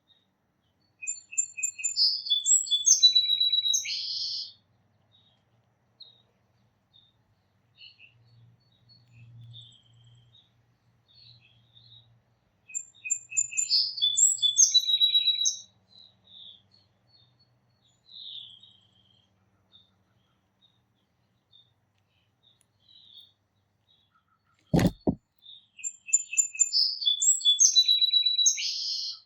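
A songbird singing the same complex song of about three seconds three times, with rapid trills and quick notes, and scattered soft chips in between. A single sharp knock comes between the second and third songs.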